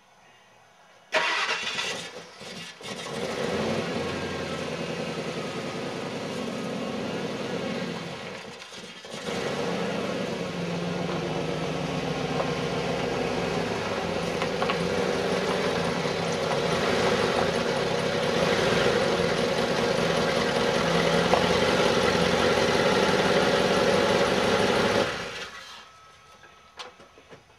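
1998 Ford F-150's 5.4-litre Triton V8 starting suddenly about a second in and running steadily. It dips briefly about eight seconds in, then cuts off about 25 seconds in.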